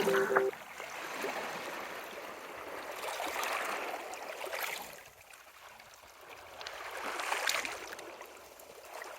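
Sea waves washing onto the shore, the sound swelling and fading in slow surges a few seconds apart.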